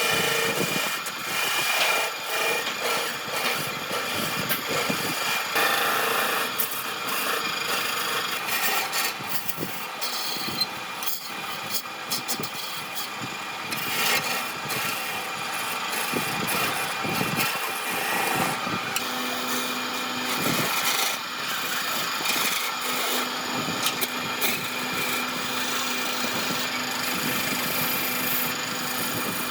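A power tool working wood with an abrasive scraping noise that rises and falls as it is worked. A low steady hum joins in about two-thirds of the way through.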